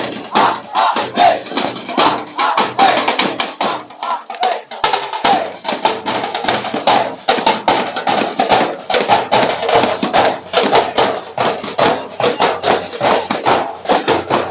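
Street-dance percussion drumming a fast, steady beat, with a crowd of voices shouting and chanting together over it, most clearly in the first few seconds.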